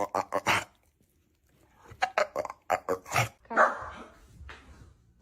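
A dog barking: a string of short barks, the loudest about three and a half seconds in.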